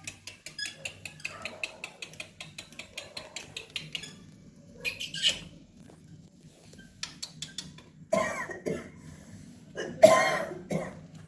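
Baby parrot making a quick series of sharp clicks, then several short harsh squawks, the loudest about ten seconds in.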